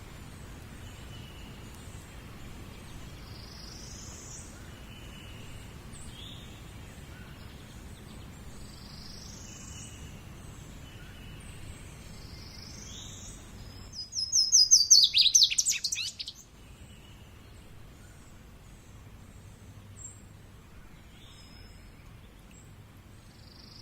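Birds singing: a short high call repeated every couple of seconds, and about halfway through a much louder rapid trill of fast repeated notes lasting about two seconds, over a steady low background hum.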